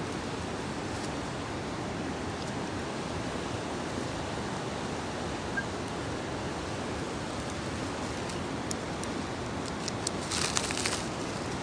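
A steady rushing hiss with a few faint sharp ticks, and a short burst of crackling about ten seconds in.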